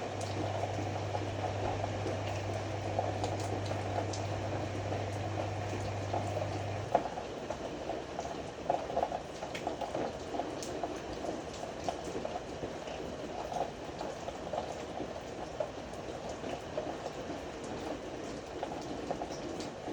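Ariston AML125 washer-dryer running, with water gurgling and sloshing inside the machine and small irregular clicks. A steady low hum runs underneath and cuts off suddenly about seven seconds in.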